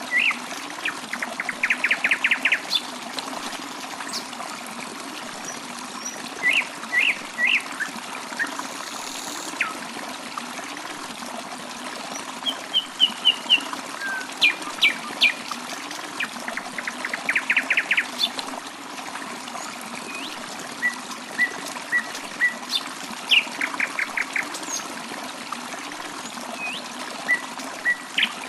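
Water trickling steadily, with songbirds calling over it: every few seconds a quick trill of rapidly repeated notes, between them scattered short chirps.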